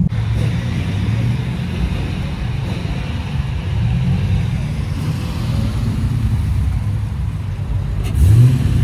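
Car engine running at a steady low rumble, then revved once briefly near the end.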